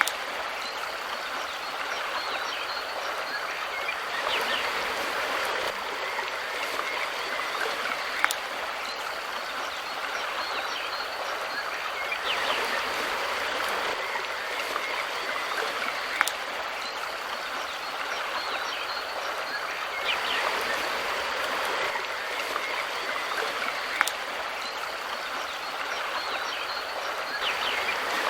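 Mountain river flowing: a steady, even rush of water. Short sharp clicks recur about every eight seconds.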